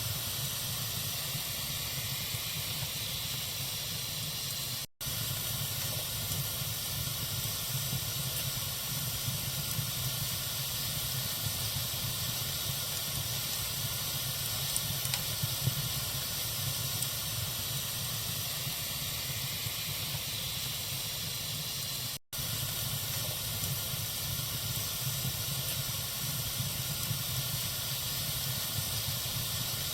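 Campfire burning with a steady hiss and faint scattered crackles. The sound cuts out for an instant twice, about five seconds in and again about twenty-two seconds in.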